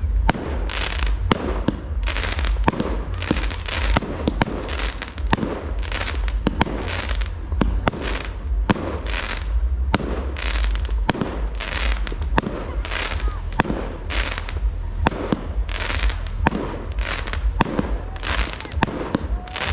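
Fireworks display: a rapid, continuous string of bangs and crackles from bursting shells, about two or three a second, over a steady low rumble.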